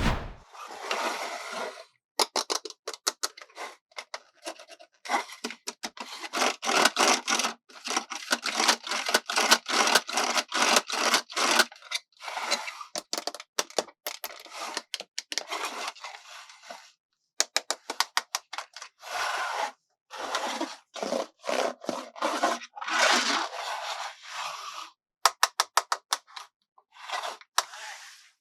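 Close-up scraping and rubbing of plastic under the hands, in bursts of a second or two with short pauses between them, and a quick run of sharp clicks near the end.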